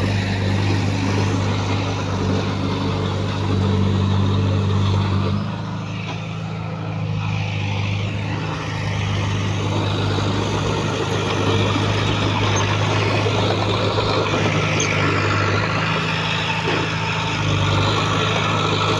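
Heavy diesel engine of earthmoving machinery running steadily, dropping in level about six seconds in and picking up again a few seconds later.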